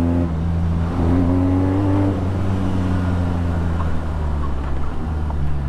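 BMW R nineT's 1170 cc boxer twin running through an Akrapovic exhaust while riding, at fairly steady revs, with the pitch easing lower about two seconds in. Wind noise is mixed in.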